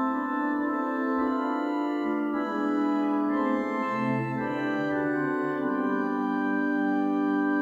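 Church organ playing sustained chords, a short introduction giving the chant before the psalm is sung.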